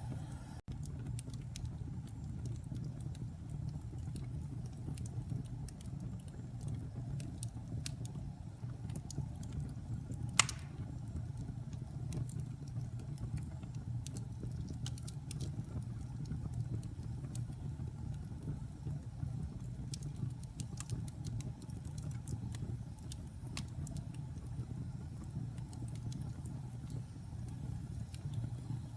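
Wood fire in a fireplace crackling, with scattered sharp pops over a steady low rumble of burning. One loud pop comes about ten seconds in.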